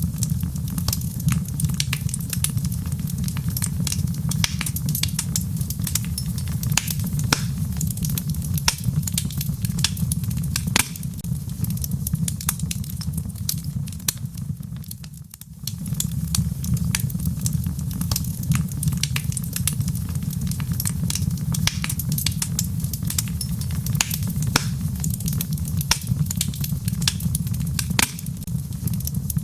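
Wood fire burning in a fireplace: logs crackling with many sharp pops over a steady low rumble. The rumble briefly dips about halfway through.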